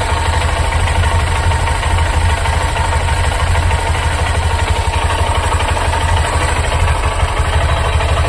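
New Honda SP125's single-cylinder four-stroke engine idling steadily with a fast, even pulse and a steady whine above it; the owner presents this as an abnormal engine noise and vibration after only a month of use.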